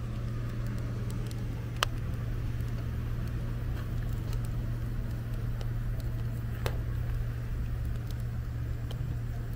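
Stacked firewood catching and burning in a fire pit, crackling with scattered small ticks and two sharper pops, over a steady low hum.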